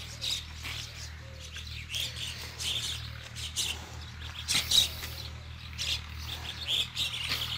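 Birds chirping repeatedly in short, high calls, with one louder, sharper burst a little past halfway, over a steady low hum.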